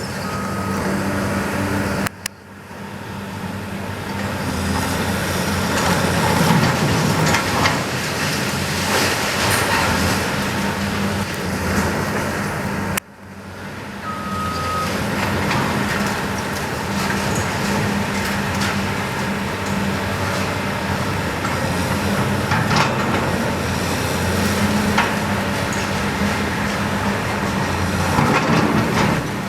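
Heavy demolition machinery working: a diesel engine runs steadily under the grinding, clattering noise of debris, with a few sharp knocks. A backup alarm beeps briefly about halfway through, and the sound cuts out abruptly twice.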